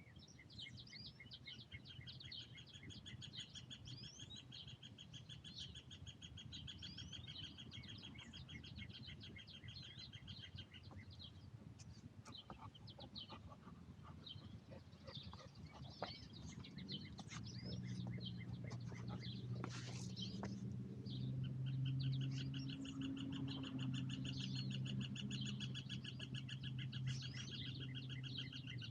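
Wild birds chirping, with a long, fast, even trill that runs for several seconds near the start and comes back near the end. A low, steady hum comes in about two-thirds of the way through.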